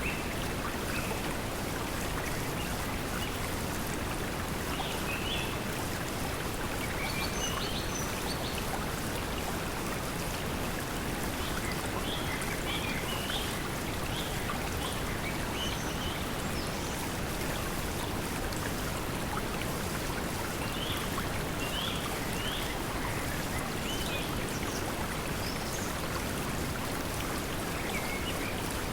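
Steady pink noise blended with flowing water, with short high bird chirps coming in scattered little groups over it.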